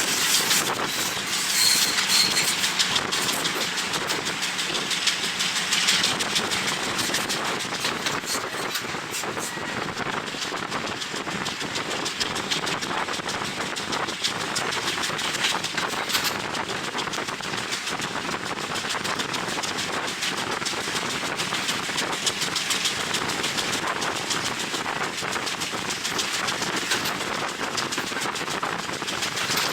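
Passenger train running along the line, heard from an open window: a steady rush of wind on the microphone over the rattle and clatter of the carriage and wheels on the rails.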